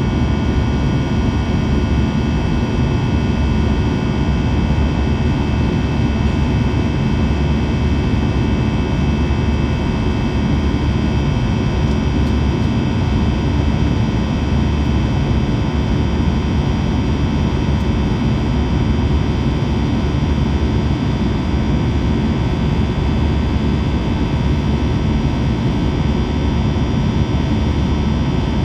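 Steady cabin drone of an Airbus A321 airliner's jet engines: a constant low rumble with several fixed, even whining tones above it, unchanging throughout.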